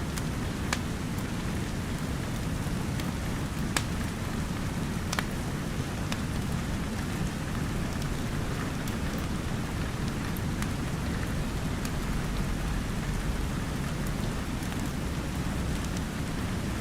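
Steady rain with a fireplace crackling, its sharp pops and snaps scattered irregularly over the even hiss of the rain.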